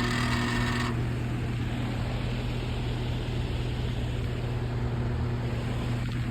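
Air-conditioner outdoor unit running: a steady electrical hum under an even whooshing mechanical noise. A brighter, higher noise sits on top for about the first second and then cuts off suddenly.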